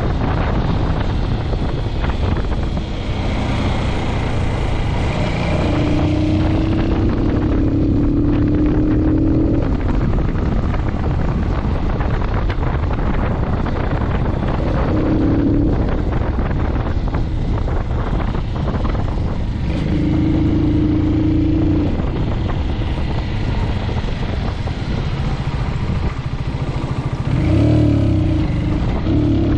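Motorcycle engine running under way, with a steady rumble and wind rushing over the microphone. Its note climbs several times in short stretches as the bike accelerates.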